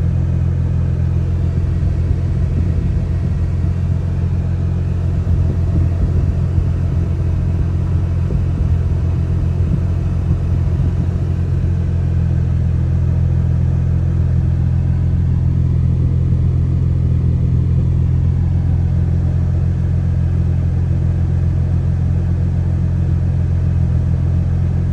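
1992 Nissan 300ZX Twin Turbo's 3.0-litre twin-turbo V6 idling steadily after a cold start.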